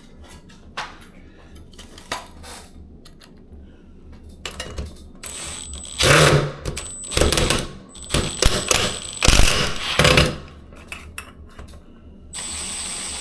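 Clicks, knocks and rattles of a ceiling fan blade and its screws being handled and fastened, with louder clattering bursts in the middle and a steady whirring stretch near the end.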